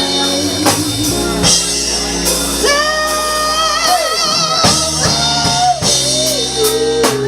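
Live band with drum kit, bass and guitar backing a female singer, who holds long notes with a wide vibrato about three seconds in.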